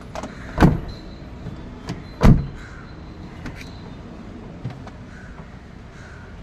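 Renault car door swung on its door limiter (check strap), freshly fitted with turned nylon rollers and greased, as a test of whether the knocking noise is gone. Two sharp knocks about a second and a half apart, then a few light clicks.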